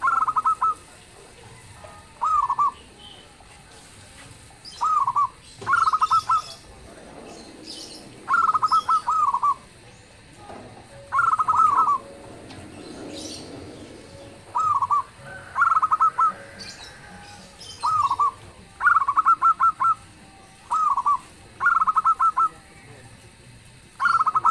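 Zebra dove (perkutut) cooing: short phrases of quick staccato coo notes, repeated about a dozen times at intervals of one to three seconds.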